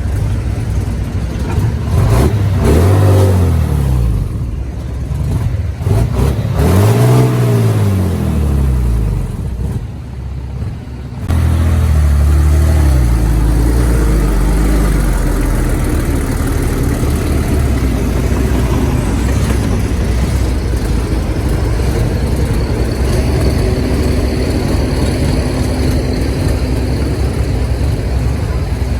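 Heavy diesel engine of earthmoving equipment revving up and falling back twice, then, after a sudden change about eleven seconds in, running steadily at an even speed.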